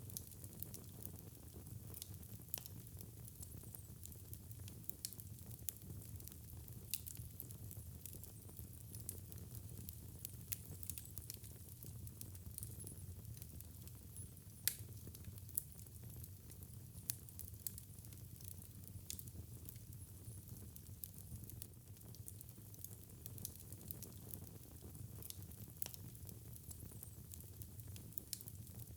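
Wood fire crackling, with frequent sharp pops and snaps over a low steady rumble of the flames; one pop about halfway through is louder than the rest.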